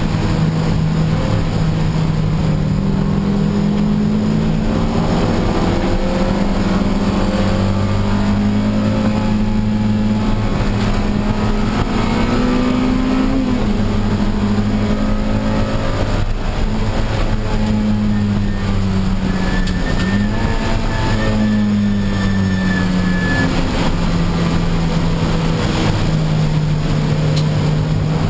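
Honda Civic Si race car's engine running hard, its pitch climbing slowly and dropping back several times as it works through the gears, over a steady hiss.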